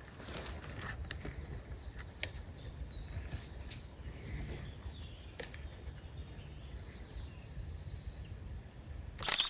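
Outdoor ambience with a steady low rumble and a few scattered sharp clicks. A small bird sings a quick run of repeated high notes about seven seconds in. Just before the end there is a loud brief burst of noise, then the sound cuts off.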